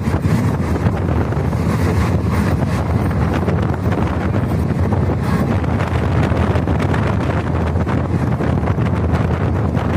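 Passenger train running, its low rumble mixed with wind rushing over the microphone, steady throughout.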